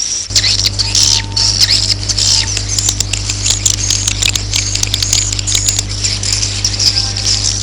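Swiftlet roosting-call recording: dense, overlapping high chirps and twitters from many swiftlets, the call played in swiftlet houses to draw the birds in to roost. A steady low electrical hum runs under it from just after the start.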